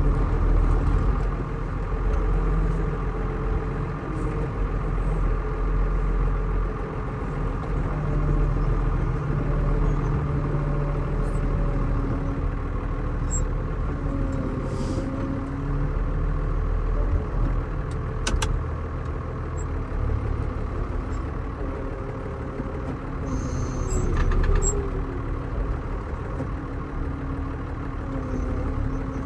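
Tractor engine running steadily, its pitch shifting up and down as it works a hay bale up onto a small truck. A sharp click comes about two-thirds of the way through.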